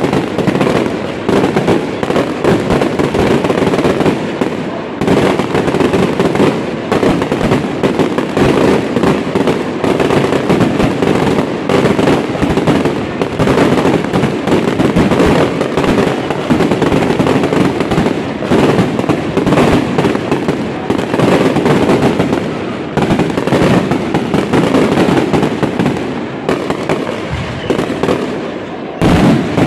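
Fireworks display: a dense, unbroken barrage of bangs and crackling, many shots a second, with one short lull and a loud bang near the end.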